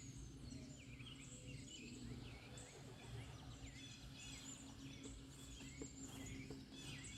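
Faint outdoor ambience: many small birds chirping with quick rising and falling calls, over a low steady hum.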